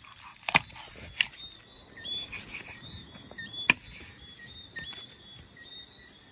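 Three sharp knocks or clicks, about half a second, just over a second and nearly four seconds in, over a steady background of insects chirping in quick repeated notes.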